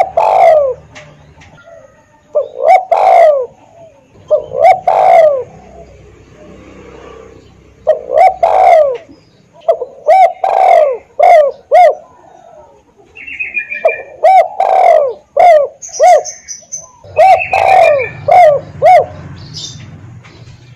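Spotted dove (tekukur) cooing: a series of phrases, each of two to four hooting coos, repeated every couple of seconds. Faint chirps from other birds come in about two-thirds of the way through.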